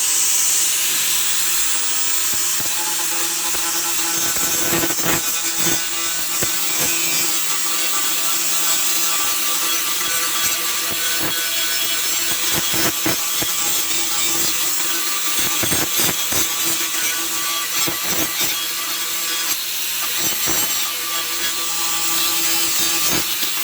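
Power grinder running with its abrasive disc against a steel saw-blade knife blank: a steady grinding hiss over the motor's hum, with short uneven scrapes as the blade is pressed and moved.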